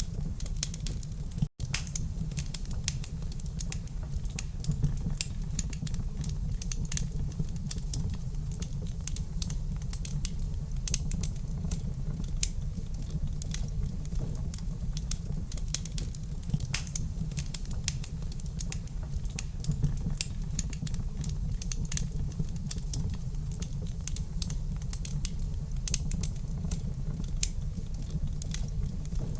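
Wood fire in a fireplace crackling, with frequent irregular sharp pops over a low steady rumble. The sound cuts out for a split second about a second and a half in.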